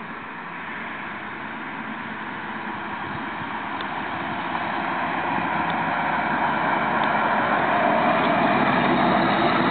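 1989 Chevrolet K1500's 350 V8 running through an exhaust with no muffler, only stock headers and a universal 3-inch catalytic converter. The exhaust note grows steadily louder.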